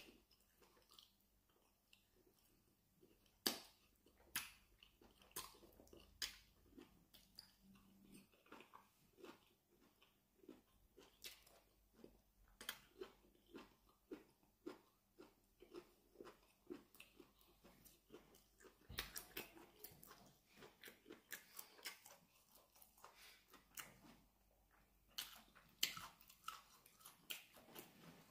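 A man chewing plantain fufu with peanut soup: soft mouth clicks and smacks, about one or two a second, with a few louder smacks.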